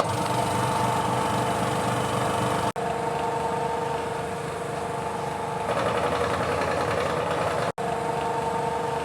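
Vacuum pump of a bottle vacuum leak tester running with a steady hum, evacuating the test chamber down toward −250 mm Hg. It starts abruptly, cuts out for an instant twice, and grows noisier about two-thirds of the way through.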